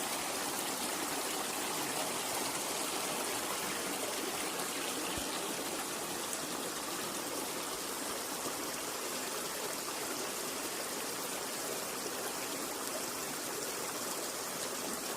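Flowing water rushing steadily, with no change in pitch or level.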